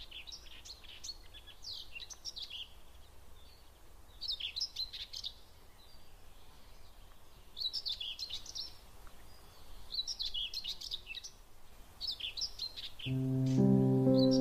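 A songbird singing short, high-pitched phrases, repeated every two to three seconds. Soft music fades in about a second and a half before the end.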